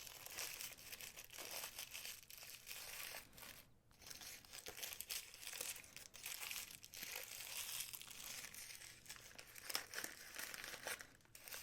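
Paper and plastic packaging crinkling and rustling as it is handled and unwrapped, on and off, with a brief pause about four seconds in.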